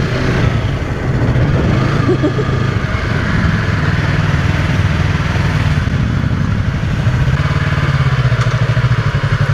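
2015 Yamaha YZF-R3's parallel-twin engine running at low revs, with a steady pulsing beat in the last couple of seconds.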